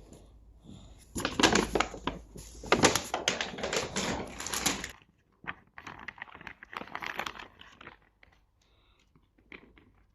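Crinkling and rustling of something being handled at close range, in two spells: a loud, dense one in the first half, then a break and a quieter one.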